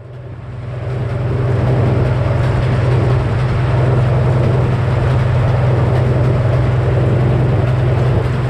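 A heavy engine running steadily with a strong low hum, swelling up over the first second or so and then holding level.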